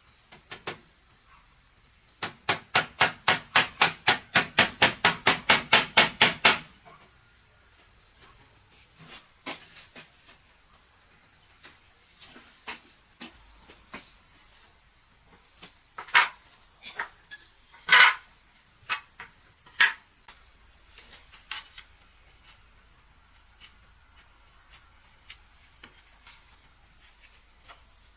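A hammer striking wood in a quick, even run of about eighteen blows, roughly four a second, then a few scattered knocks later on. Insects chirr steadily and high-pitched underneath.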